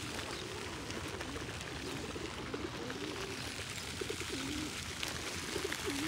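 Low, wavering cooing calls from birds, several in a row with short gaps.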